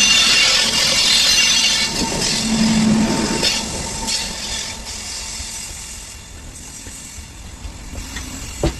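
Goods train wagons rolling along the track: a dense rushing rail noise, loud at first and dying away through the second half. One sharp knock near the end.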